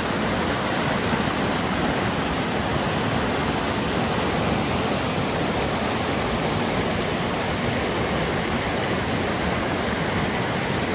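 Creek swollen with spring snowmelt runoff, rushing fast and hard: a loud, steady wash of water.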